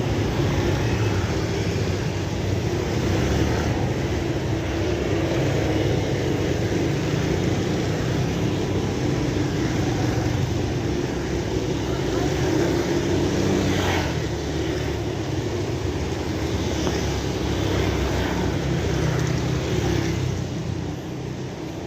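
Steady rain falling: a continuous hiss with a low rumble beneath it, easing slightly near the end.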